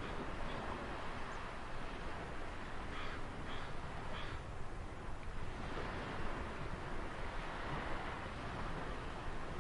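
Ocean surf washing in a steady rush that swells and eases, with a bird calling three times about three to four seconds in.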